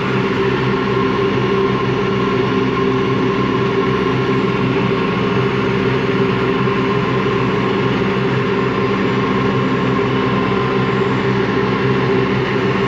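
Empty washing machine in its spin cycle, running with a steady grinding hum and whine that does not change. The owner takes the grinding for worn motor bearings or drum bearings.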